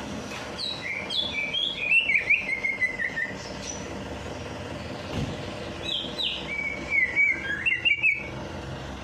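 Songbird singing two phrases of quick, gliding whistled and chirping notes, starting about half a second in and again around six seconds, over a steady background hiss.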